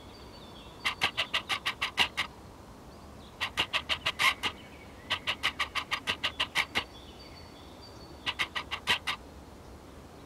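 A bird giving harsh chattering calls in four bursts of about six to ten sharp notes each, over faint whistled birdsong.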